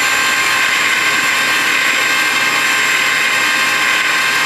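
Homemade turbocharger-based jet engine running steadily on its test rig: a loud rushing roar with a constant high whine from the spinning turbine.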